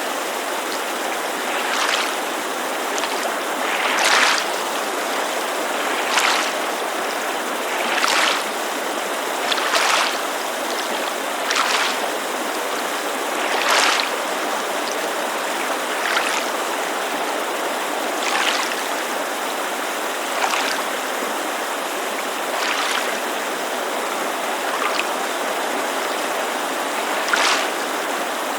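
Small waves lapping against a lakeside shore, a soft splash about every two seconds, over the steady rush of a mountain creek.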